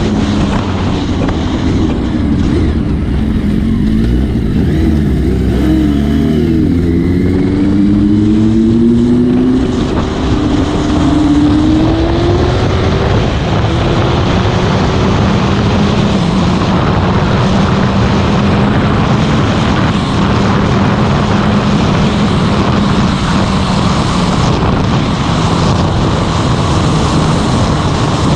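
Motorcycle engine on the move, its pitch rising in several steps as it accelerates up through the gears, then holding a steady cruise under heavy wind noise on the microphone.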